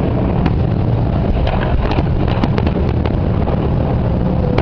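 Fireworks display: a continuous low rumble of shell bursts with scattered sharp cracks and pops, and wind buffeting the microphone.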